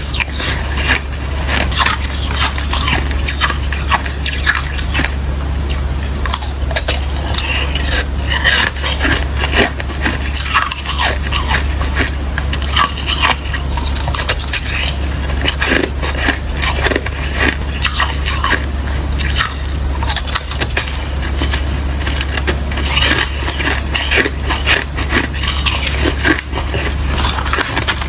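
Biting and chewing of watery, slushy ice: a dense, irregular run of crunches and crackles.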